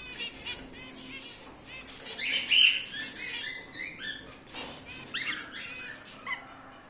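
Cockatiels chirping in a run of short repeated calls, with a louder harsh squawk about two seconds in and a few falling whistled calls near the end.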